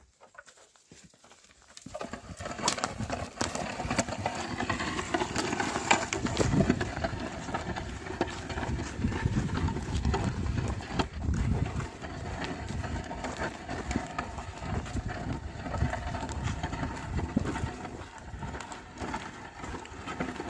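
Pair of oxen drawing a plough through field soil: hooves treading and the plough scraping, a dense, uneven rustle with many small thuds that starts about two seconds in.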